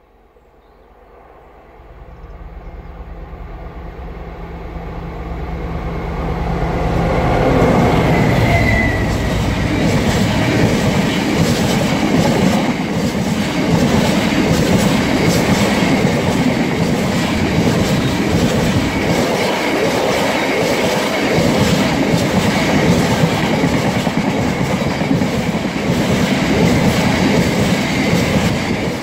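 Freight locomotive approaching with its engine note building, then passing about eight seconds in as the note drops. A long rake of loaded tank wagons follows, rolling by with a steady clickety-clack of wheels over the rail joints.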